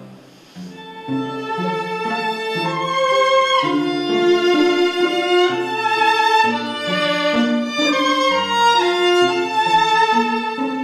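Violin playing a melody of held notes over a lower accompaniment, resuming after a brief pause about half a second in.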